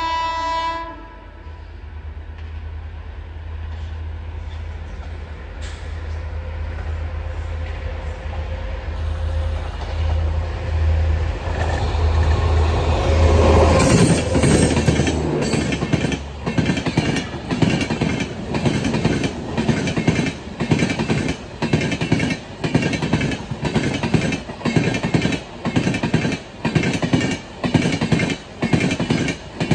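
A train horn cuts off about a second in, then the rumble of an approaching express train grows until its WAP-7 electric locomotive passes close by about halfway through. After that the coaches go by with a steady, rhythmic clatter of wheels over the rail joints.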